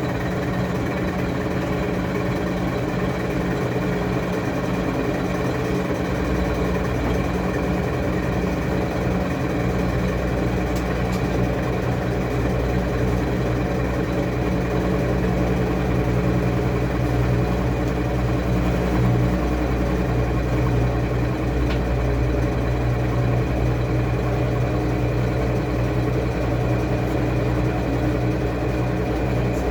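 Washing machine running with a steady motor hum; a deeper rumble comes in about six seconds in and the hum changes pitch about two-thirds of the way through.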